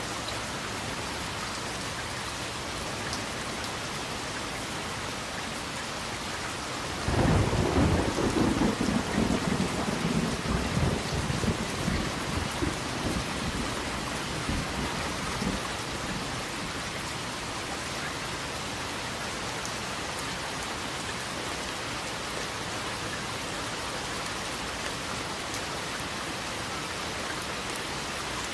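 Steady rain, with one clap of thunder about a quarter of the way in: a sudden loud low crack that rumbles and fades away over several seconds.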